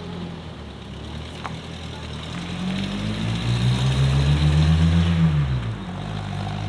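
A modified car's engine revs up, rising in pitch and loudness over a couple of seconds, holds briefly, then drops back to a steady lower note about six seconds in, as the car pulls away.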